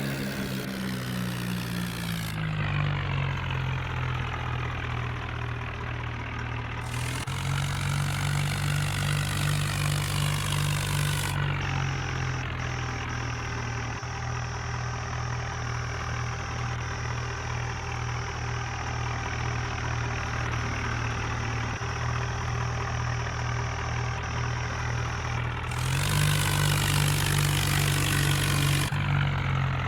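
Tractor diesel engine running steadily. It is revved up about seven seconds in and held for a few seconds, then again near the end, dropping back to a lower speed in between.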